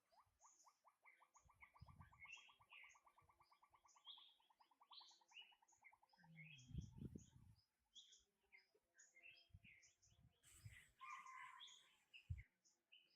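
Faint birdsong: several birds chirping, one repeating a fast series of short rising notes for about the first six seconds, with a few low thumps mixed in.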